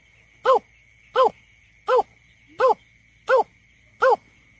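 Greater painted-snipe giving its lure call: a steady series of short, low hooting notes, about one every 0.7 seconds, each note bending down at the end.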